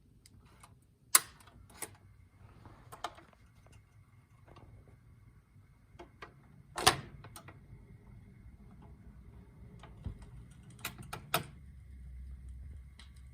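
Admiral console record changer being set going: sharp mechanical clicks and clunks, the loudest about seven seconds in, over a faint steady motor hum that grows a little near the end.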